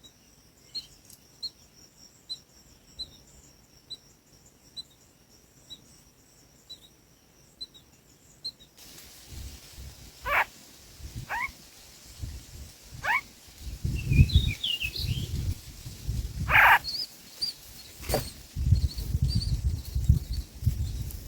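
Birds calling: faint, evenly spaced high chirps over a steady high hum, then, about nine seconds in, a run of louder calls that each sweep sharply down in pitch, one of them long, over bursts of low rumbling noise.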